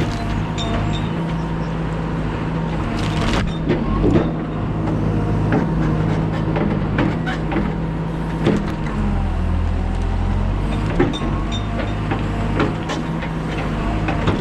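Diesel engine of heavy construction equipment running steadily under work, with scattered knocks and clanks. Its pitch and load shift about nine seconds in.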